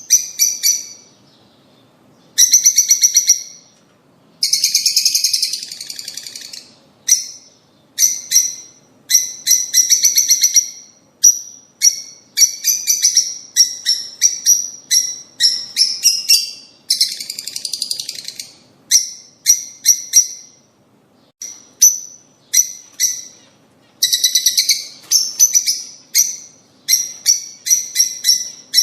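Lovebirds chattering: shrill, high chirps in quick runs and bursts, separated by short pauses.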